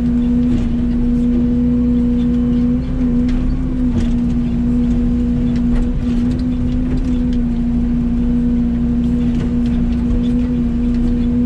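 Mini excavator's diesel engine running steadily at working speed, its pitch sagging briefly a few times, with faint clicks and knocks over it.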